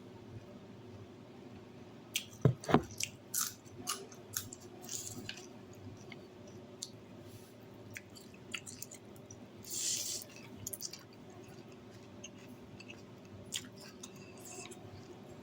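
A person eating pork noodle soup close to the microphone: chewing, with many short sharp clicks and clinks. The loudest cluster comes about two to three seconds in, and a short hiss comes about ten seconds in.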